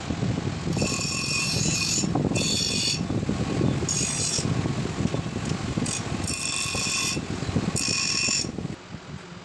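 Steel being ground by a machine. A loud rattling runs under repeated spells of high-pitched metallic squeal, each half a second to a second long, and it all stops sharply near the end.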